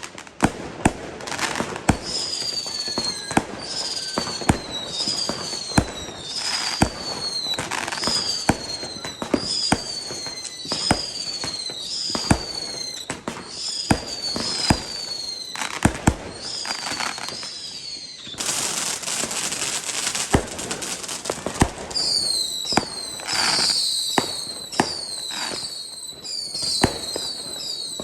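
New Year's Eve consumer fireworks: repeated sharp bangs, with a run of short high whistles, each falling in pitch, at a little over one a second. Near the middle there is a dense crackling hiss for a few seconds, and then many whistles overlap near the end.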